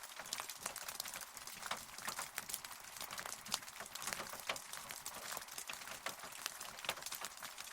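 Rain falling steadily, with many close drops ticking irregularly over an even hiss.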